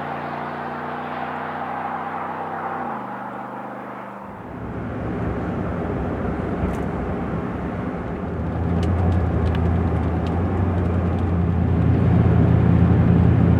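5.3-litre V8 of a GM Silverado/Sierra 1500 through a Flowmaster FlowFX dual-mode muffler: the exhaust note drops in pitch as the truck comes off the throttle, then gives way to a low rumble that grows louder about eight seconds in.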